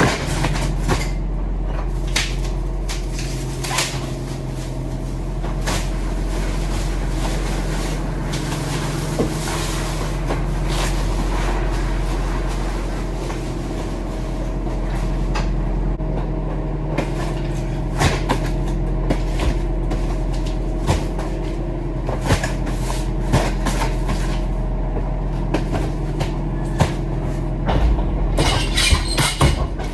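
Heavy truck's engine running with a steady low drone, with frequent short knocks and rattles throughout that get busier near the end.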